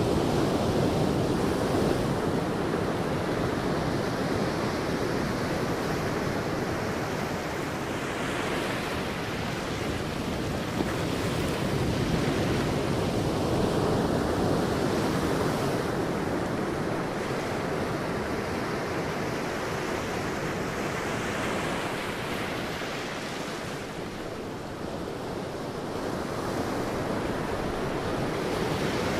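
Sea waves breaking and washing on a beach, a continuous surf that swells and eases over several seconds, with wind.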